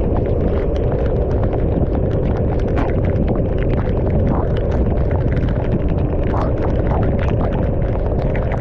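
Wind buffeting the camera microphone on a motorcycle riding through heavy rain: a steady loud rumble, with scattered sharp ticks of raindrops striking the camera.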